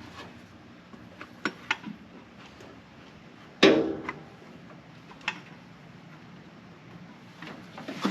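Scattered light clicks and knocks of parts being handled and fitted on a car engine, with one louder clank about three and a half seconds in, over a low steady hum.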